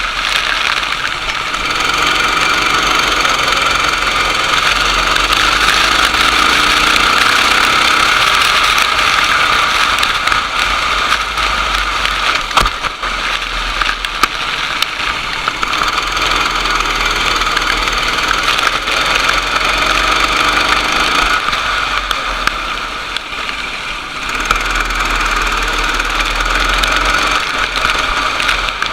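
Racing go-kart engine running hard, its pitch falling and rising as it slows and accelerates again, with a sharp click about twelve seconds in.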